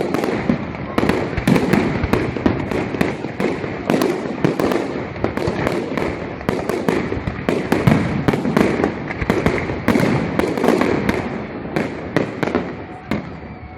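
Fireworks display: a dense, continuous run of shell bursts and crackling bangs, several a second.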